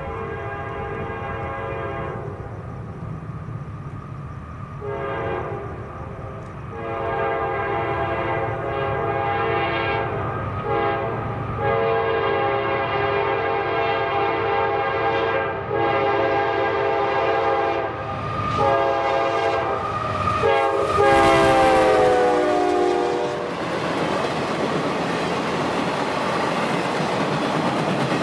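Locomotive air horn sounding several long, chord-like blasts as the train approaches. The horn drops in pitch as the locomotive passes, then gives way to the steady rumble of the train's cars rolling by.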